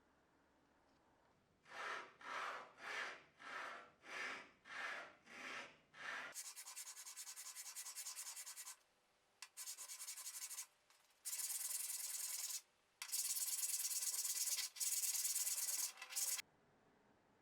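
Sanding of steel hand-plane parts: eight even back-and-forth strokes, a little under two a second, then a steady high hiss in four longer stretches with short breaks, which cuts off abruptly near the end.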